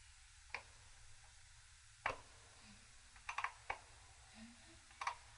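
Light, scattered metal clicks and taps as pushrods and valve-gear parts are handled and seated during engine assembly, about eight in all, some in quick runs of two or three.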